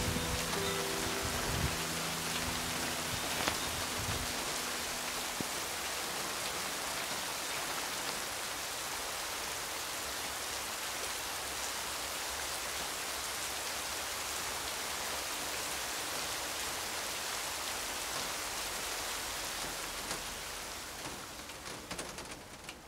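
Steady rain falling, an even hiss that fades down over the last couple of seconds.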